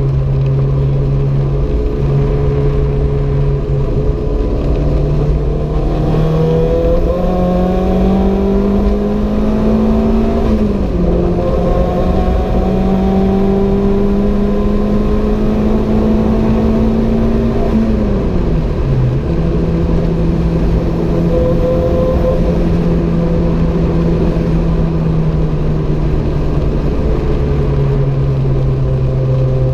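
Renault 5 GT Turbo's turbocharged four-cylinder engine running at speed. Its pitch climbs slowly twice under throttle and drops sharply each time the driver lifts or shifts, over a steady rush of road and wind noise.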